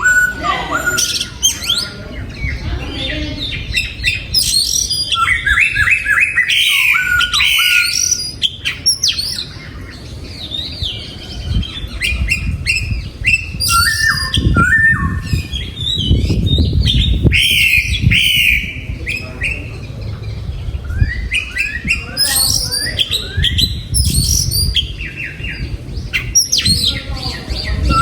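Oriental magpie-robin singing: a run of varied whistled phrases with rising and falling notes, coming in bursts. A low rumbling noise runs underneath, strongest around the middle.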